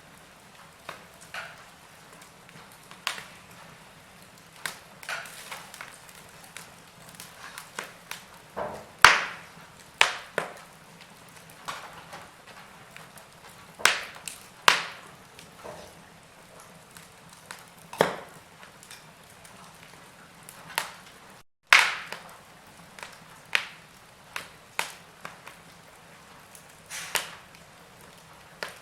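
Burning logs crackling: irregular sharp pops and snaps, a few much louder than the rest, over a faint steady hiss. The sound cuts out for a split second about two-thirds of the way through.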